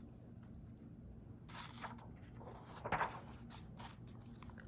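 Faint handling noises from a picture book: a soft paper rustle about a second and a half in and a few light clicks around three seconds, over a low steady hum.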